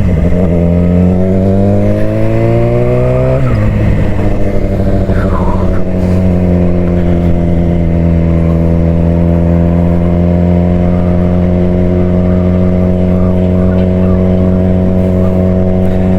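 Suzuki GSX-R600's inline-four engine accelerating through the gears. Its pitch drops at an upshift right at the start, climbs for about three seconds, drops at a second upshift, then holds nearly steady at cruising speed.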